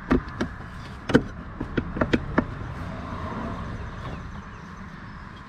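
Hand work on parts in a car's engine bay: a string of sharp clicks and knocks in the first half, then a quieter scraping or rustling.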